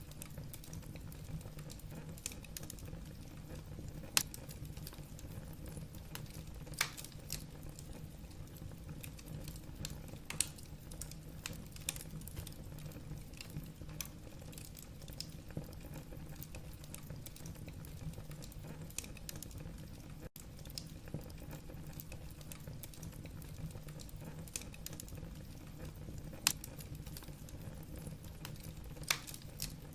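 Wood fire in a fireplace crackling: irregular sharp snaps and pops of burning logs over a steady low rumble, with a few louder pops now and then.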